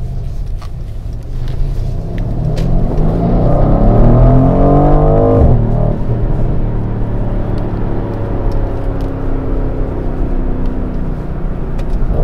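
Mercedes-AMG GLC63 S's twin-turbo V8 heard from inside the cabin, accelerating with rising pitch, then dropping in revs at a quick upshift about five and a half seconds in and pulling on steadily in the next gear.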